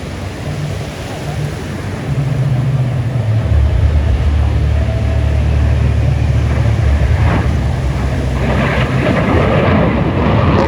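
Aircraft flying past: a deep rumble builds about two seconds in, then turns into a louder crackling noise near the end.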